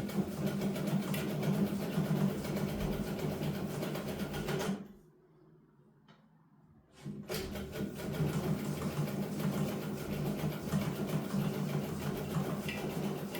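Electric sewing machine running in steady stitching bursts. It stops for about two seconds midway, then starts stitching again. The owner finds the machine stiff and hard-sewing, even after oiling it.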